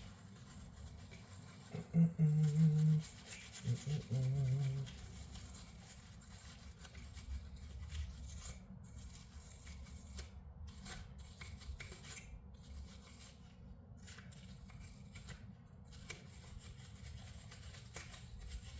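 A man humming two short notes a few seconds in, over faint rustling and scraping as small grinder parts are handled.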